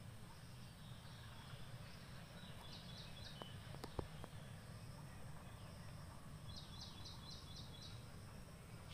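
Faint outdoor ambience with a steady low rumble. A bird calls twice in quick runs of short high notes, three notes the first time and about six the second. A few sharp clicks come around four seconds in.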